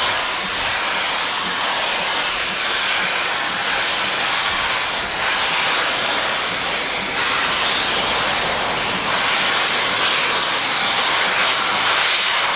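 Steady, loud rushing hiss of a steam train, with a faint high ticking repeating under a second apart.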